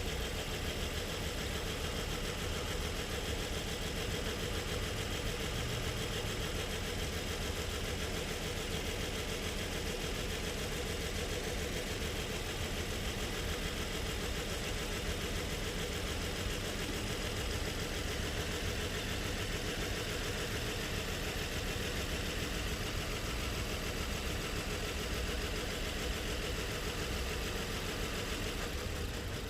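Nissan car engine idling steadily.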